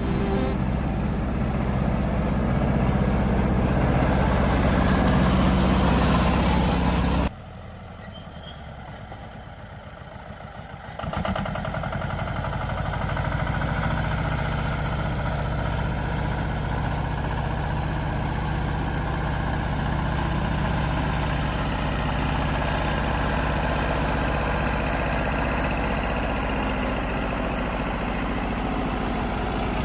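Heavy machine's diesel engine running. The sound drops off abruptly about seven seconds in, with a quieter stretch, and a steady engine sound returns about eleven seconds in.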